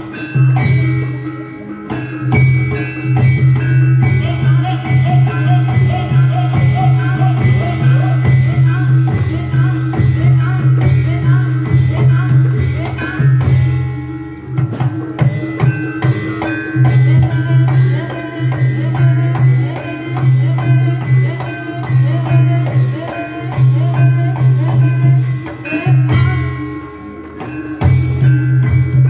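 Javanese reog ensemble music: drums and tuned metal percussion playing a steady, dense rhythm, with brief breaks in the low part about halfway through and near the end.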